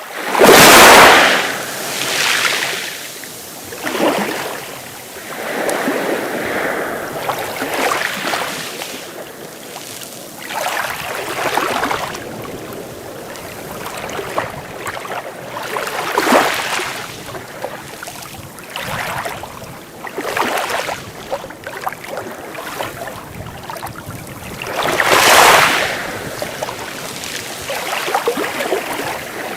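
Sea waves breaking and washing up the shore in repeated swells every few seconds, the biggest about a second in and another near the end.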